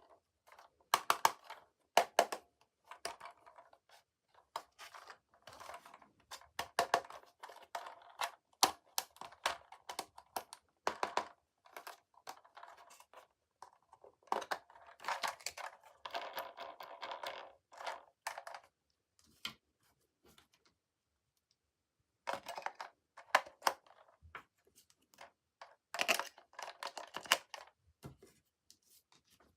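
Toy packaging being handled and opened: irregular bursts of sharp clicks, crinkling and tearing of plastic and cardboard, with a pause of a few seconds about two thirds of the way in.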